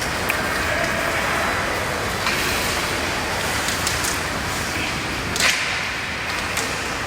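Hockey game sound: a steady wash of rink noise, broken by a few sharp cracks of sticks striking the puck, the loudest about five and a half seconds in.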